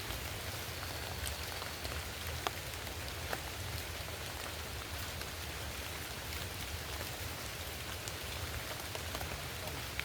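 Steady rain falling: an even hiss with individual drops ticking now and then.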